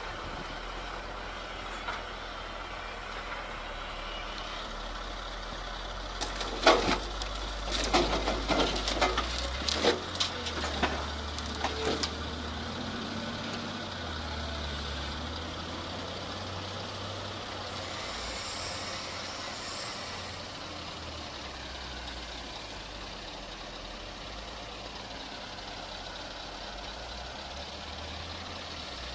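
A heavy machine's engine running steadily, with a burst of sharp knocks and cracks between about six and twelve seconds in.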